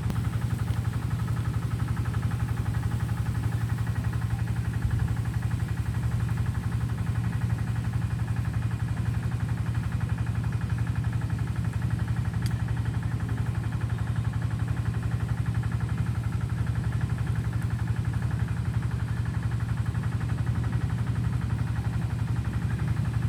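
An engine running steadily at idle: an even low hum with a buzz above it that doesn't change in pitch or level.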